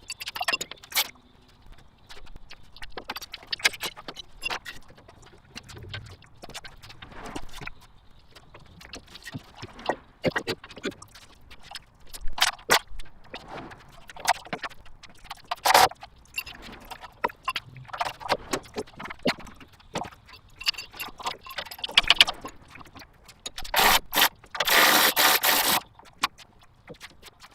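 A dense, rapid jumble of metal clinks, clanks and scrapes from hand tools and engine parts being worked on. Near the end, a louder rushing noise lasts about a second and a half.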